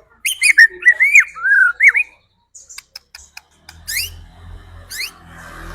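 White-rumped shama (murai batu) singing: a loud run of whistled, sliding notes in the first two seconds, then after a short pause a string of sharp rising sweeps about once a second. A low hum runs under the second half.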